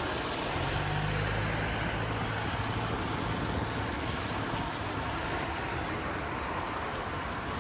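Road traffic noise: a passing vehicle's engine hums low, strongest in the first few seconds, over a steady background of city noise.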